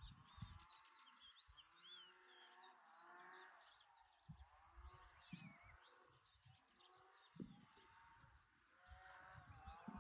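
Faint birdsong outdoors: several small birds chirping and twittering in short high trills and whistled notes, with intermittent low rumbles of wind on the microphone.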